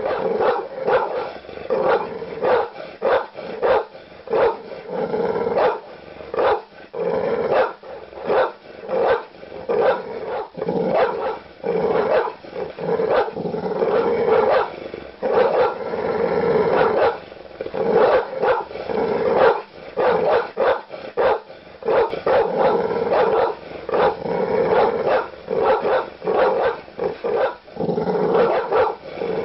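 Large dog barking aggressively, deep barks coming in fast, nearly unbroken runs.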